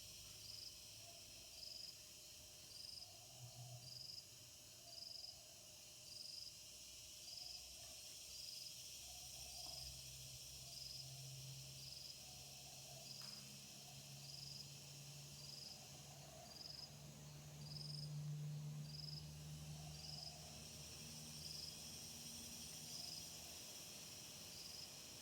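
Faint insect chirping: short, even, high chirps about once a second over a steady high hiss of other insects, with a faint low hum underneath.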